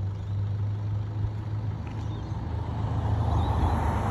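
A motor vehicle's engine running with a steady low hum, joined by a rising rush of noise from about three seconds in.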